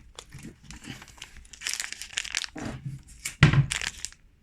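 Snack packaging crinkling and rustling as it is handled and opened, with one thump about three and a half seconds in.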